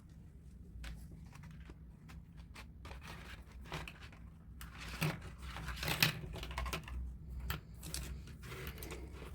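Paper rustling and crinkling, with light clicks and taps of coloring supplies being handled; the rustling grows louder and denser in the second half.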